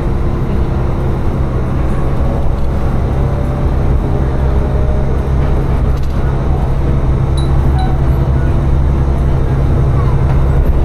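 Tsugaru Railway diesel railcar running between stations: a steady engine drone and wheel-on-rail rumble heard from inside the car.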